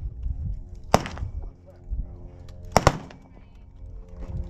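Gunshots on a shooting range: one sharp shot about a second in, then two in quick succession near three seconds in, each with a short echo trailing off.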